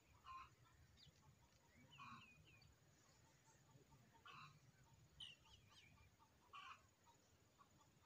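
Faint bird calls about every two seconds, with short thin chirps in between.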